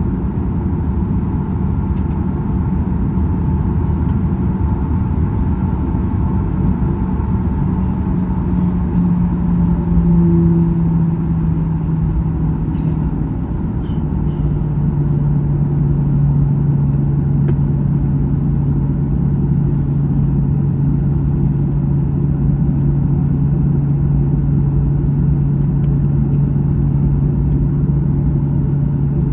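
Cabin noise of a Boeing 737-800 in flight: a steady rumble of its CFM56 engines and airflow, with a hum that drops to a lower pitch about halfway through.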